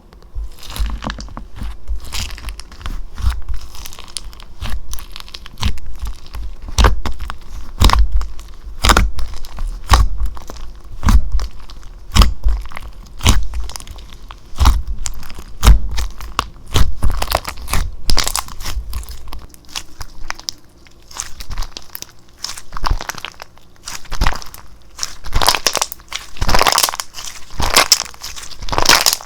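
Slime being squished and stretched by hand, giving an irregular run of sharp clicks and crackling pops that come thickest near the end.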